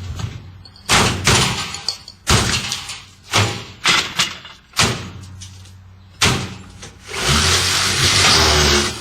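A washing machine struck and slammed repeatedly: about nine heavy thumps and bangs at irregular intervals of half a second to a second. Near the end they give way to a loud, steady rushing noise with a low hum.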